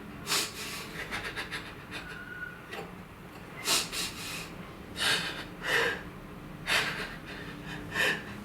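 A person breathing heavily: a quick run of short breaths in the first couple of seconds, then louder ragged breaths about once a second.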